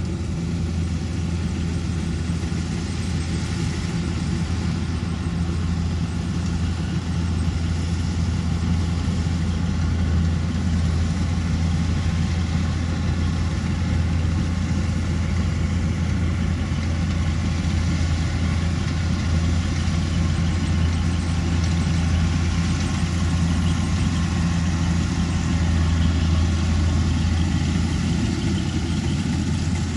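Kubota DC-105X combine harvester's diesel engine running steadily, a constant low drone that holds an even level throughout.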